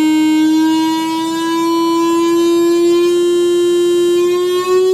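Roland FA-06 virtual analog synthesizer holding a single square-wave note, a buzzy tone rich in odd harmonics, its pitch creeping slowly upward.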